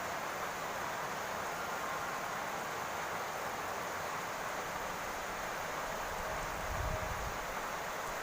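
Steady rain falling on a roof, an even hiss, with a brief low rumble about seven seconds in.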